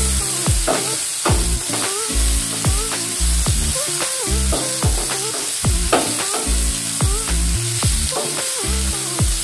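Bitter gourd slices sizzling in hot mustard oil on a medium flame, frying until crisp, stirred and turned with a wooden spatula that clicks against the pan. Background music with a steady beat plays alongside.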